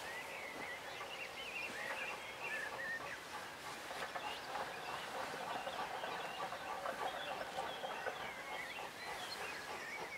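Small birds chirping and warbling in short repeated phrases over faint steady background noise.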